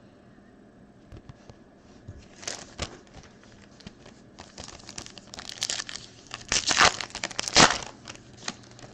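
Foil trading-card pack wrapper being torn open and crinkled in the hands: scattered crackles, then a louder run of crinkling and tearing in the last few seconds.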